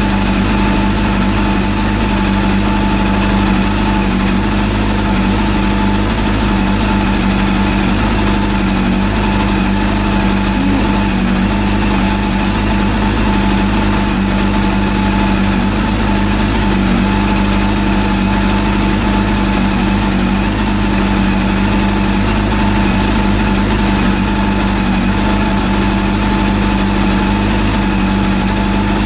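Freshly rebuilt Honda CB400 four-cylinder motorcycle engine idling at a steady pitch, with no change in speed.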